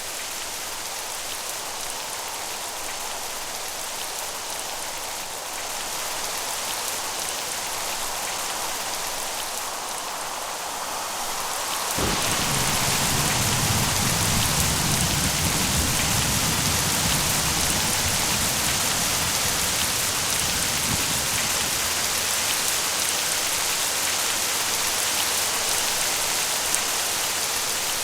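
Steady rain falling. About twelve seconds in, thunder breaks suddenly into a low rumble that rolls on for about nine seconds, and the rain grows louder from then on.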